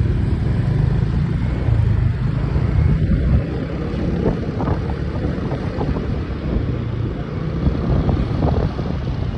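Motorbike riding along: the engine running with a steady, churning rumble of wind buffeting the microphone.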